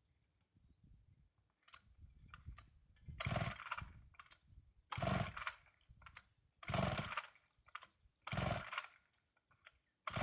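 Chainsaw being pull-started after sitting unused since last season. There are several rope pulls about every second and a half to two seconds, each turning the engine over in a short burst, with lighter clicks and rattles in between. The engine does not catch and run.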